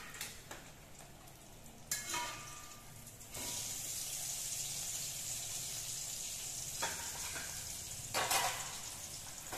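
Food frying in hot oil in a metal wok: a sharp clank with a brief ring about two seconds in, then a steady sizzle that sets in about a second later. Near the end the metal spatula scrapes and clatters against the wok twice.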